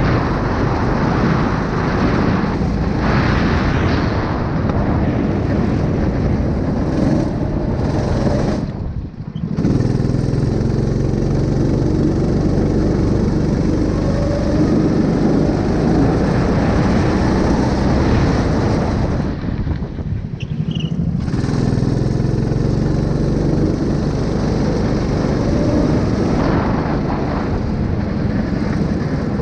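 A 9 hp engine running steadily and loudly, with a low even hum. The sound drops out briefly twice, about nine seconds in and again about twenty seconds in.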